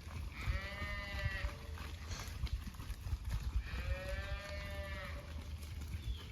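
A calf bawling twice, each call about a second long and about three seconds apart, over a low steady rumble.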